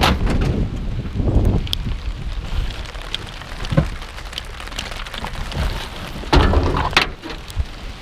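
Steady rain falling, with a few sharp knocks and rough handling rumbles: near the start, about a second and a half in, and near the end.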